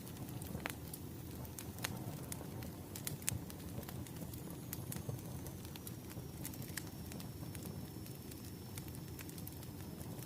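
Wood bonfire crackling: irregular sharp pops and snaps over a low, steady rumble of burning.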